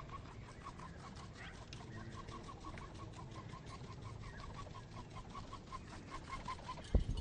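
An animal calling: a quick, even run of short notes, about four or five a second, over a low background rumble. A sharp thump near the end is the loudest sound.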